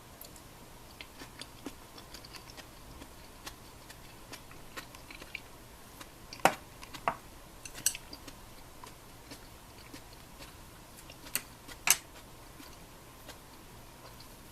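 Scattered light clicks and taps of small hard objects, with a few sharper clinks about halfway through and twice near the end, over a faint steady hum.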